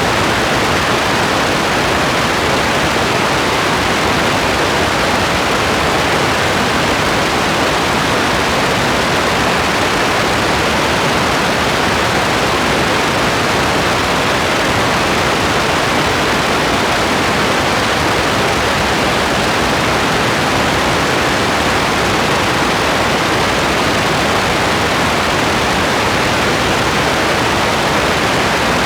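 Steady, dense rain with an even hiss and no separate drops, thunder or changes.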